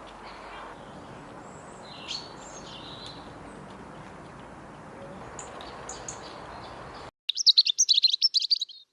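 Small garden birds giving a few short high chirps over a steady outdoor hiss. After a sudden cut, a loud burst of rapid, high twittering bird song lasts about a second and a half.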